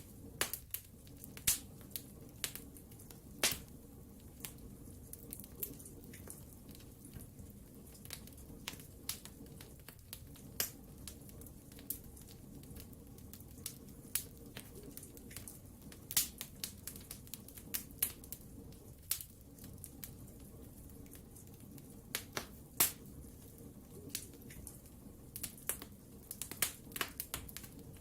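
Wood fire crackling: irregular sharp pops and snaps from burning logs, several louder ones scattered through, over a steady low rumble of the flames.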